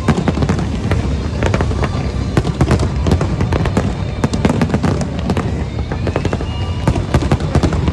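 Large fireworks display: a dense, continuous barrage of crackling and popping bursts over a steady low rumble of booms.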